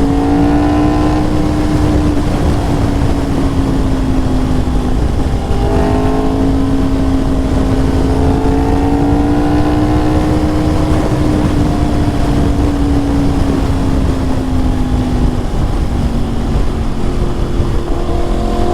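Sport motorcycle engine running at a steady cruising speed, heard from the rider's position with heavy wind rush on the microphone. The engine note holds nearly level, dips briefly about five seconds in and drops slightly lower near the end.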